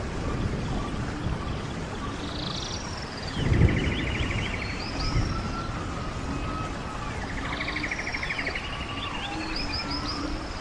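Running stream water with several songbirds singing over it: fast repeated trills twice, mixed with short falling whistles. There is a brief louder low rush of water a few seconds in.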